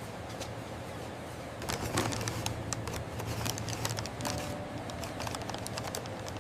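A quick, irregular run of light clicks and ticks over a faint low hum, growing busier about a second and a half in.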